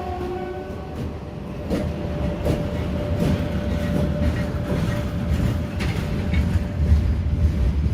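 A passing train: the end of its horn fades out in the first second. Then the wheels knock over rail joints above a steady low rumble, with a thin steady whine.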